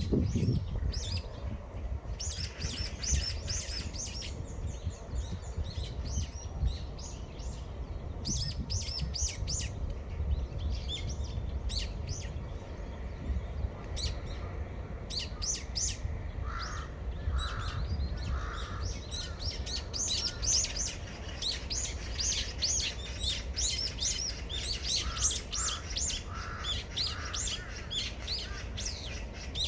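Small birds chirping rapidly and continually, with a crow cawing three times around the middle and three times again near the end, over a low steady rumble.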